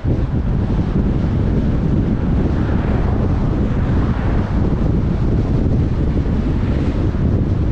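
A car driving along a road: a steady low rumble of road and wind noise, with gentle swells every few seconds.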